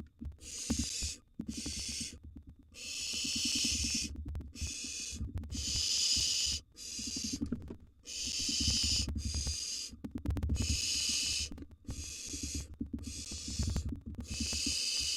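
Barn owl nestlings giving their hissing, snore-like begging calls: a run of rasping hisses about a second long each, one after another with short gaps, with a low buzz beneath them. They are the nestlings begging for food during a feeding.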